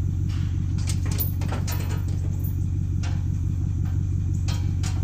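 An engine runs steadily at idle, with a few short metallic clanks and knocks scattered through.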